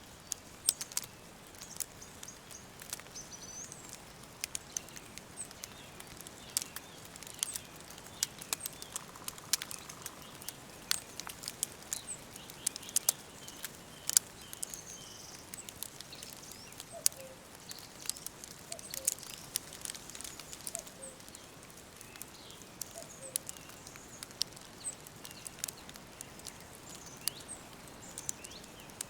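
Wood fire crackling with frequent sharp pops, over faint high bird chirps in the background. A short lower falling note repeats several times about midway.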